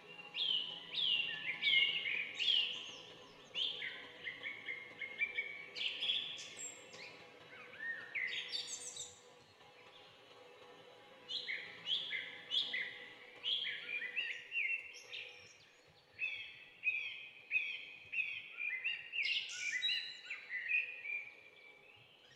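Songbirds chirping in rapid runs of short, quickly falling notes, with a brief lull near the middle.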